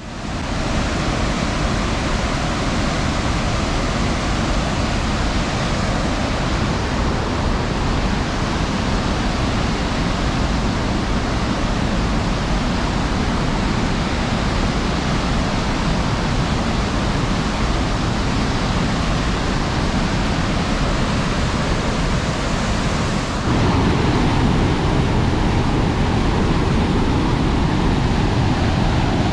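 Cascades of Rearguard Falls on the Fraser River rushing: a loud, steady, even wash of white water. About three-quarters of the way through it shifts to a slightly louder, fuller sound.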